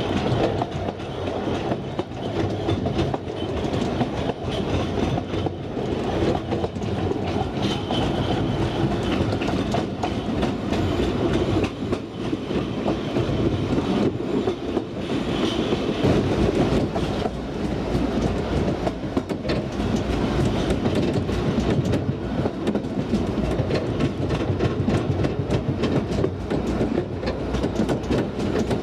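2 ft narrow-gauge railway carriage running along the track: a steady rumble of wheels on rails with frequent clickety-clack clicks.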